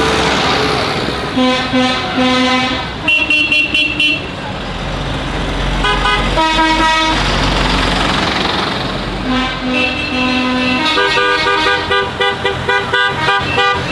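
Lorries in a passing convoy sounding their horns: a few short toots and longer blasts, then a fast run of short horn blasts near the end, over steady traffic noise.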